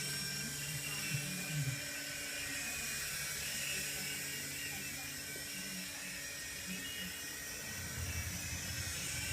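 Helicopter running with a steady high whine over a low drone.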